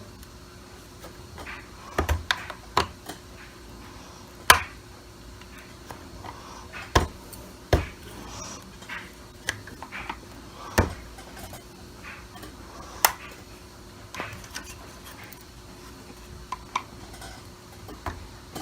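Plastic parts of a Dyson DC25 cyclone assembly being handled and worked apart by hand: scattered sharp clicks and knocks, the loudest about four and a half seconds in.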